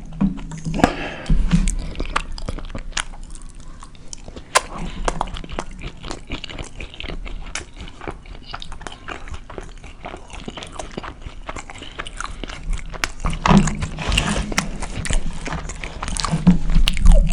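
Close-miked chewing and wet mouth clicks from eating a red hot beef burrito, with brief low hums about a second in and near the end.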